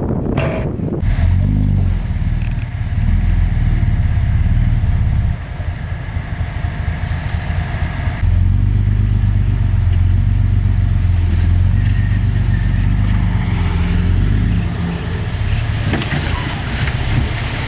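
Diesel engine of heavy earthmoving machinery running under varying load. It picks up about a second in, eases off around five seconds, works hard again from about eight seconds and eases near the end.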